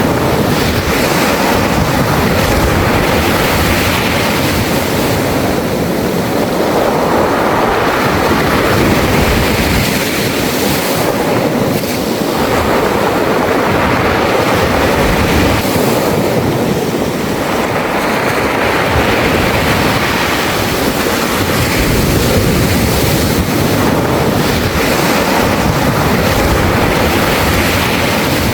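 Waves washing up and back over a beach of smooth round pebbles, the surf hissing and the stones rattling in the backwash. It swells and ebbs roughly every six seconds.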